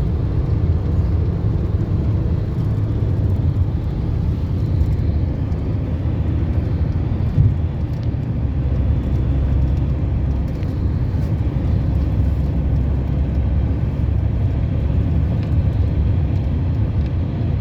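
Steady low rumble of a car driving along a road, engine and tyre noise, with a single short knock about seven seconds in.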